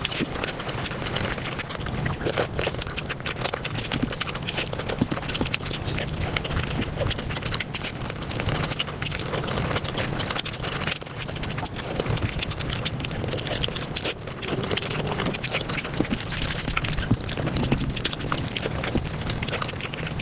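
Close-miked mukbang chewing and eating sounds sped up five times, turned into a dense, fast, unbroken clatter of tiny clicks and crackles.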